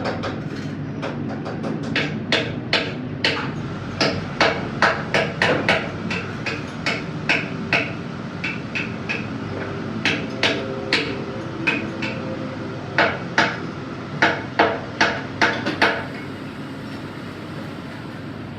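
Hammer striking metal in a run of irregular blows, about two to three a second, some with a brief metallic ring, over a steady low background noise; the blows stop a couple of seconds before the end.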